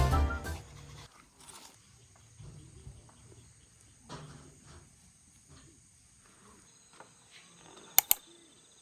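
Background music fading out within the first second, then faint outdoor ambience with the steady high-pitched chirring of insects, some light rustling, and two sharp clicks near the end.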